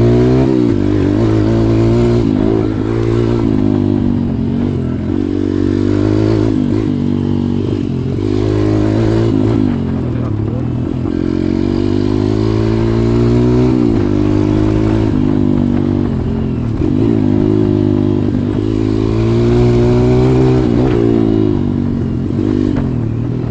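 140cc pit bike's single-cylinder four-stroke engine running under way, its pitch rising and falling over and over as the throttle opens and closes.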